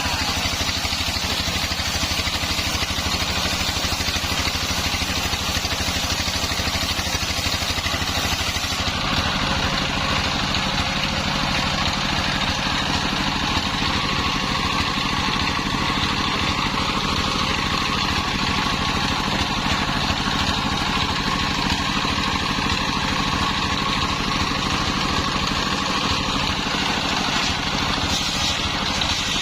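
Homemade engine-driven circular saw running steadily with a constant engine drone; its sound changes about nine seconds in.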